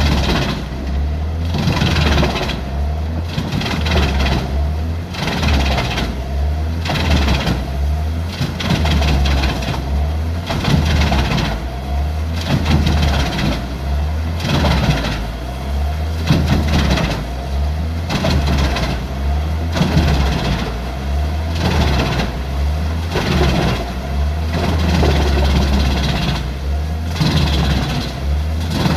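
Heavy diesel engine of a large wood chipper running steadily under load, with repeated bursts of chipping noise about once a second as wood is fed through the rotor.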